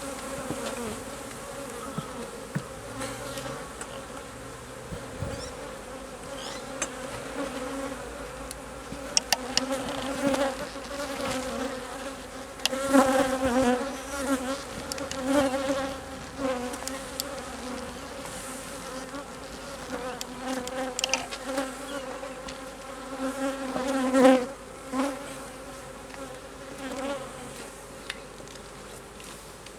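Honey bees buzzing in numbers around an opened hive: a steady drone that swells louder a few times, strongest about two-thirds of the way through. Occasional light knocks and clicks sound over it.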